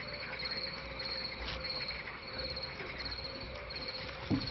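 Crickets chirping in a summer night chorus: a high trilled chirp repeated about twice a second over a soft steady hiss.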